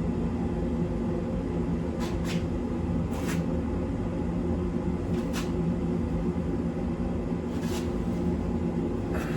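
Steady low mechanical hum, with a few brief, faint scraping sounds scattered through it.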